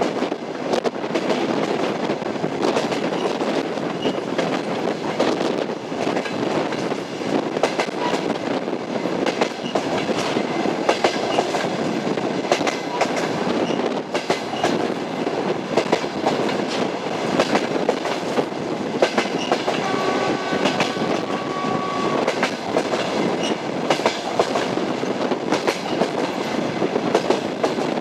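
Passenger train wheels clattering over the rail joints of jointed track at speed: a continuous rumble broken by rapid, irregular clicks and knocks. A short, faint steady tone sounds about two-thirds of the way through.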